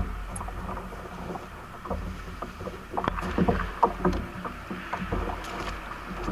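Kayak being paddled: irregular knocks and splashes of paddle strokes and the paddle bumping the plastic hull, busiest about halfway through.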